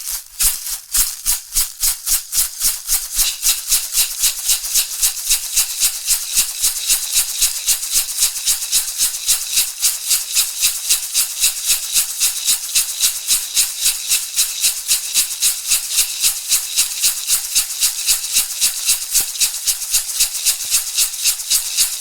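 Shamanic rattle shaken in a steady rhythm of about three to four strokes a second, each stroke a bright seed-like rattle. The beat is a little slower and uneven in the first few seconds, then settles.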